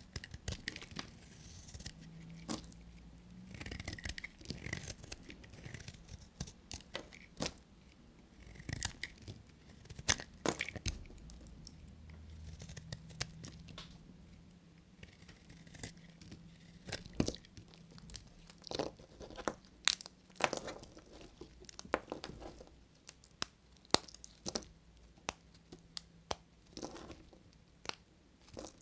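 Knife cutting through bars of soap: scraping, crunching strokes with irregular sharp cracks as pieces split off.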